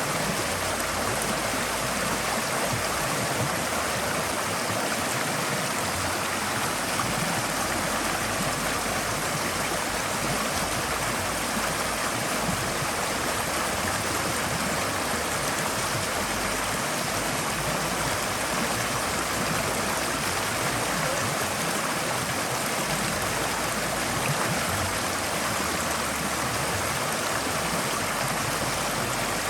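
Forest stream flowing steadily over rocks: a continuous even rush and babble of water with no breaks.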